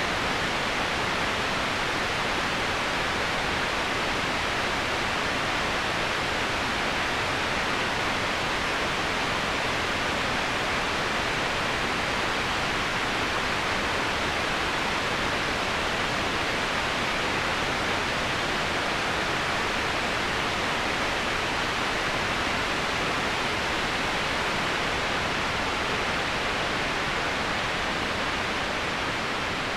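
Steady rush of moving water: an even, unbroken hiss with no separate splashes.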